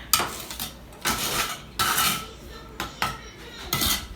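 A metal tool scraping and clinking, in about four separate strokes a second or so apart.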